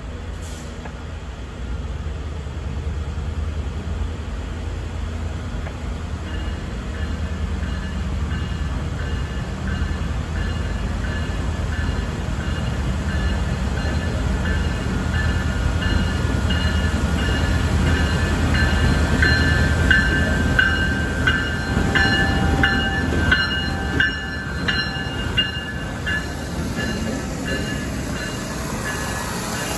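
Diesel locomotive of a rail-washing work train approaching and passing slowly: a low engine rumble that grows louder, and a high ringing that repeats steadily, typical of the locomotive's bell. In the second half, wheels click over the rail joints as the locomotive and cars roll past.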